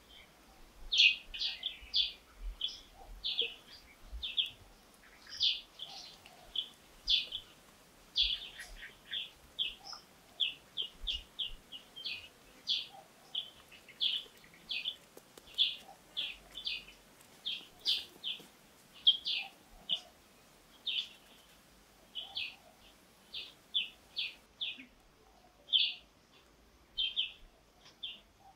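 A bird chirping over and over, short high chirps coming about twice a second at uneven spacing.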